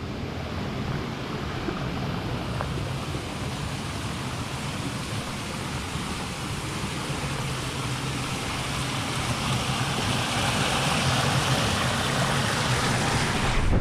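Water rushing steadily along a stone irrigation channel (falaj), growing slightly louder near the end.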